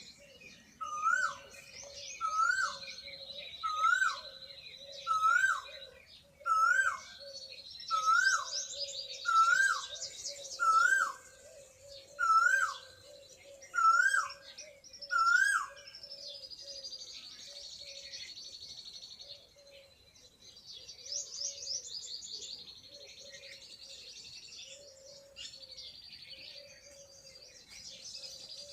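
Several birds singing and chirping together, with high trills and twitters throughout. One bird repeats a loud whistled note that rises then drops, about every one and a half seconds, eleven times over the first half, then stops.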